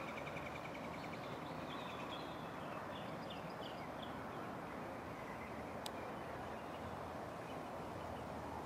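Steady outdoor background hiss with a small bird chirping: a quick trill at the start, then a few short high notes over the next few seconds. A single sharp click about six seconds in.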